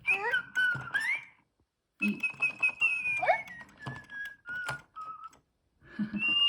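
A robotic toy bird whistling electronic tweets: runs of sliding and stepped whistle notes with short gaps between them, ending in a long held whistle note.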